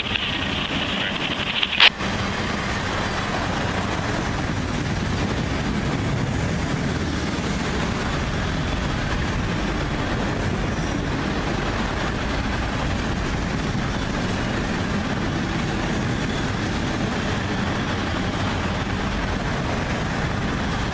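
Freight train of autorack cars rolling past at speed: the steady rumble and clatter of its wheels on the rails. A high-pitched noise over the first two seconds ends with a single sharp click.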